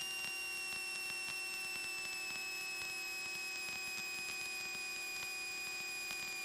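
Steady electrical hum with a high whine in a light aircraft's intercom audio; the whine slowly drops in pitch.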